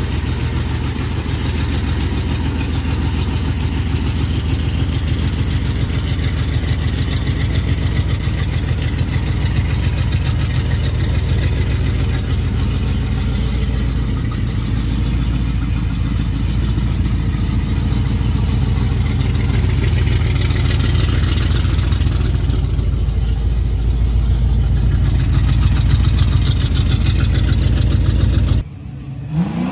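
Muscle car's V8 engine running at low speed with a low, choppy rumble, getting louder over the last several seconds, then cut off abruptly near the end.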